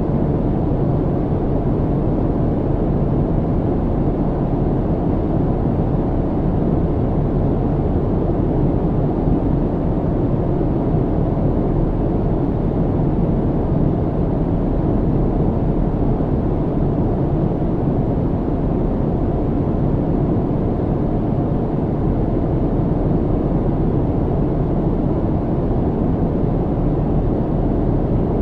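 Steady, deep rushing drone of a jet airliner's cabin in cruise: engine and airflow noise, unchanging, with a faint steady hum underneath.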